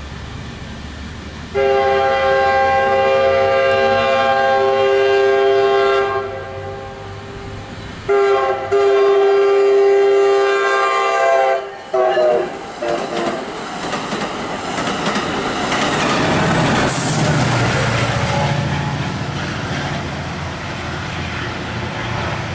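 MARC commuter train's multi-note air horn sounding two long blasts and a short one, then the train passing close by with a loud rumble and wheels clattering over the rail joints.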